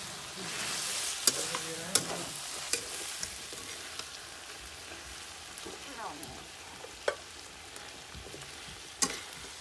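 Chicken sizzling in a karahi (wok) over a wood fire while it is stirred with a spatula. Several sharp knocks break the steady sizzle, the loudest about a second and two seconds in and again near the end.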